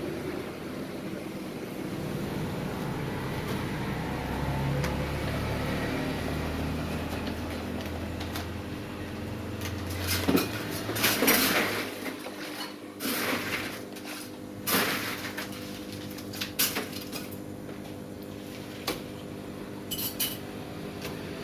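A low steady hum that stops about halfway through, then the clatter of coffee-making: glasses, cups and utensils clinking and knocking, with a few short noisy bursts between the knocks.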